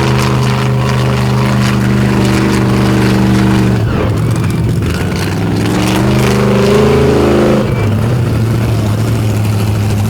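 Monster truck engine running at held revs, dropping about four seconds in, then revving up again in a rising pitch and falling back near eight seconds.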